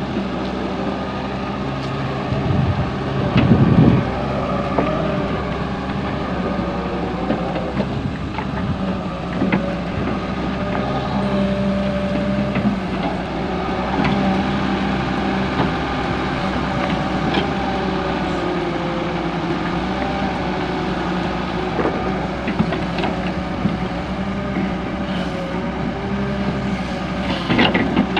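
Volvo EW130 wheeled excavator's diesel engine running steadily under hydraulic work, its pitch drifting slightly up and down, with scattered knocks and clanks. A louder rough rumble comes about three to four seconds in, and a cluster of knocks comes near the end.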